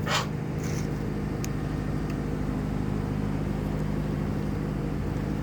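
A steady low hum, like an engine running, with a short sharp sound right at the start.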